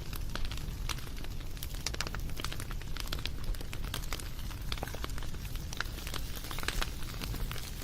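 Wood fire burning with irregular sharp crackles and pops over a steady low rumble of the flames.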